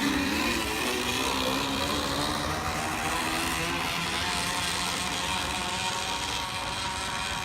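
Small motorbike engine with a newly fitted exhaust, running under way. Its pitch peaks just after the start, then eases a little and holds, growing slightly quieter toward the end.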